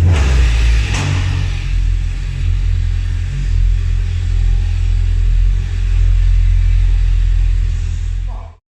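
Exhaust of a Mercedes C63 AMG W204's V8, fitted with catless downpipes and an X-pipe, running with a deep, steady rumble. It flares louder in the first second, then cuts off suddenly near the end.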